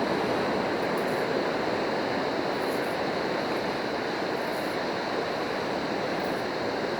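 Ocean surf washing steadily on the beach, an even rushing noise with no separate breaks or impacts.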